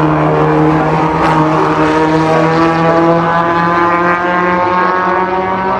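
Historic racing car engine running hard at high revs, a steady engine note that rises slightly in pitch and then holds.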